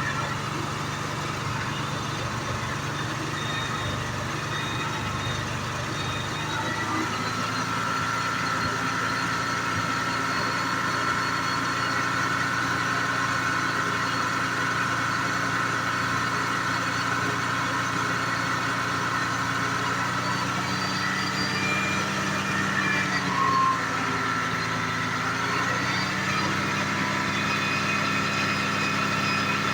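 1986 Jaguar XJ6's straight-six engine running at idle. Its speed rises about seven seconds in, then sags briefly and recovers near the end.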